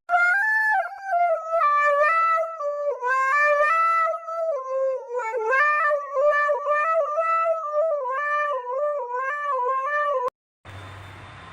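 A cat yowling in a long run of drawn-out, wavering calls that step up and down in pitch, cutting off suddenly near the end.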